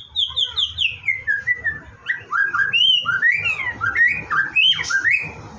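White-rumped shama singing: a quick run of short down-slurred notes that step lower in pitch, then a string of varied rising and falling whistled phrases.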